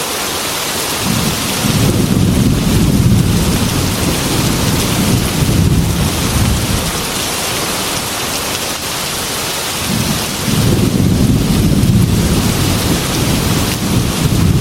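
Heavy rain falling steadily against a window, with two long low rolls of thunder: one starting about a second in and rumbling for several seconds, the other starting about ten seconds in.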